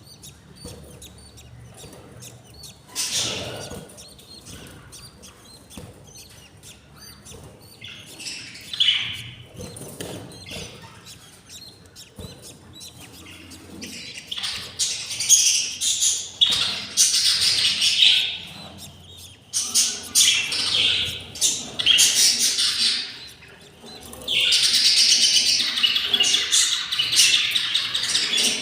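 Budgerigars chirping in scattered short bursts, growing busier from about halfway through, with a few seconds of unbroken calling near the end.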